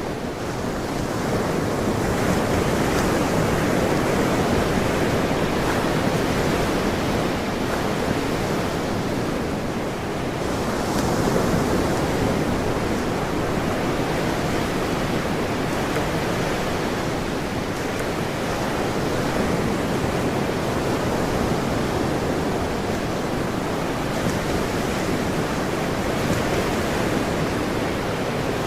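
Ocean surf washing ashore in a continuous rush, swelling and easing gently as waves come in.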